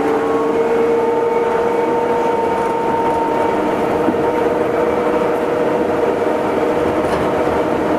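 Running sound inside an Astram Line 7000 series rubber-tyred automated guideway train travelling at steady speed: a steady whine over the rumble of the tyres on the guideway.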